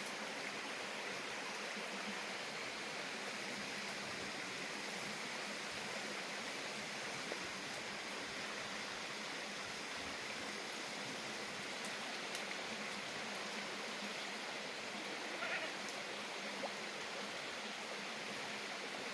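A black goat bleats once, briefly, about fifteen seconds in, over a steady hiss.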